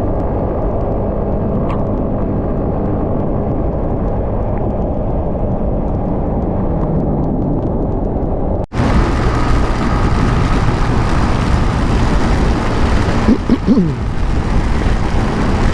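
A 150cc motorcycle running at speed, its engine drone mixed with wind rushing over the microphone. About nine seconds in the sound breaks off abruptly and comes back brighter and louder.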